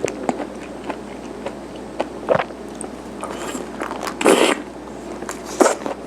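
Close-up chewing of chewy garaetteok rice cake, with wet, sticky mouth clicks throughout and three louder smacks, the loudest about two-thirds of the way in.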